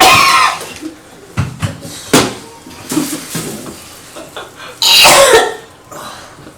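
A person coughing and gagging from nausea after overeating, close to vomiting. There are two loud heaves, one at the start and one about five seconds in, with a few short sharp sounds between them.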